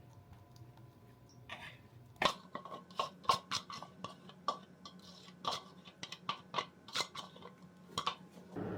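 Irregular light taps and clinks of hard kitchenware or tableware being handled, about a dozen over six seconds, starting about two seconds in.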